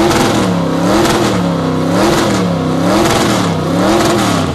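A 1932 Ford Coupe hot rod's engine is revved through open exhaust headers, blipped up and down in rhythm about once a second, four times over. It is loud, metered at 115 decibels, and settles back near the end.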